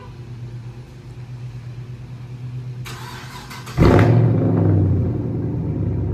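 Cold start of a 2011 Chevrolet Camaro 2SS's 6.2-litre V8 with muffler and resonator delete. The starter cranks for about a second, the engine catches with a loud flare, then settles into a steady, loud high idle.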